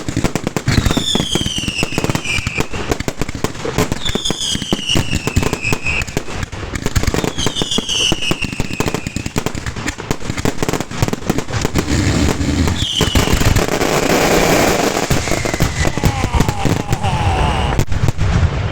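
A fireworks finale barrage: rapid, unbroken bangs from shells and salutes, thickening into dense crackling about two thirds of the way through. Behind it a car alarm, set off by the blasts, wails in falling sweeps that repeat every few seconds.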